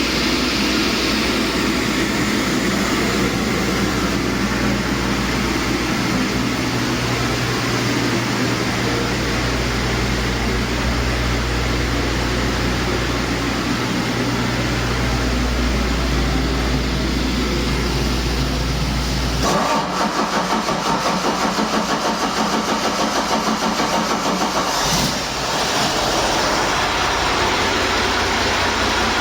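Detroit Diesel DD15 inline-six diesel engine running steadily on a test run. About two-thirds through, its sound changes and pulses rapidly for a few seconds.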